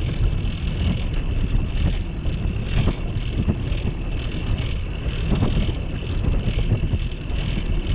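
Wind buffeting the microphone of a bicycle-mounted camera during a ride, with a steady rumble and a few knocks from the bike going over the path.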